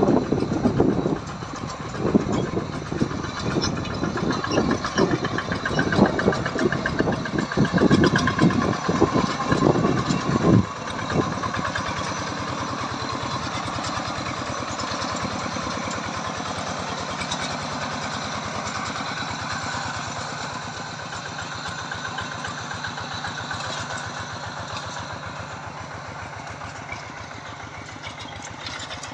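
Tractor engines running: loud and uneven with low knocking for about the first ten seconds, then a steadier, quieter engine note that slowly fades away.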